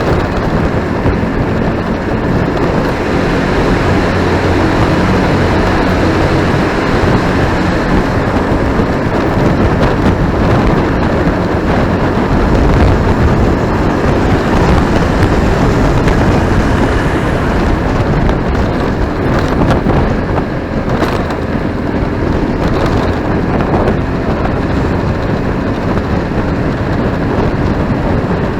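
Motorcycle being ridden through traffic: steady engine running under continuous wind and road noise.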